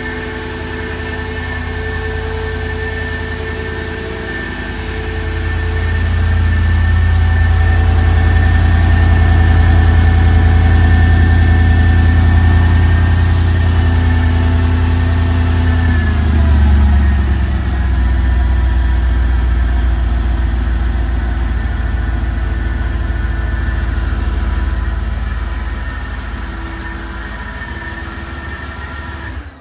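Mercedes G500's V8 idling after a cold start through Flowmaster mufflers with the middle muffler deleted, a steady exhaust note. The idle speed steps down about halfway through as the fast cold-start idle settles.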